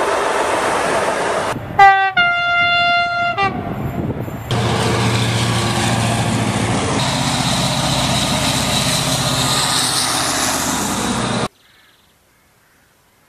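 A passing electric locomotive and its freight wagons make loud rail noise, and a locomotive horn sounds: a short blast, then a longer one of about a second and a half. Then a diesel locomotive hauling container wagons runs past with a steady low engine drone over wheel and rail noise, which cuts off abruptly near the end.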